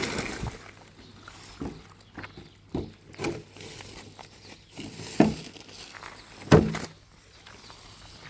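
A string of irregular knocks and thuds, the two sharpest about five and six and a half seconds in.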